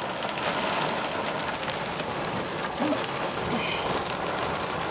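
Heavy storm rain pelting the roof and windows of a van, heard from inside as a dense, steady patter.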